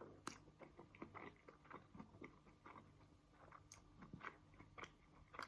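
Faint chewing: soft, irregular clicks and smacks of a mouthful of couscous and tofu being eaten.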